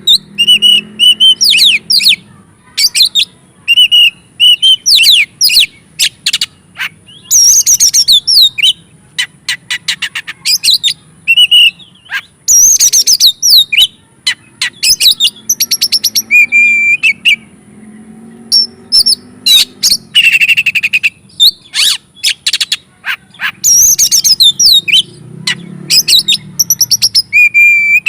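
An Oriental magpie-robin (kacer) in full, excited song. It sings rapid, varied phrases of clear whistles and sliding notes mixed with sharp clicking notes, broken by short pauses.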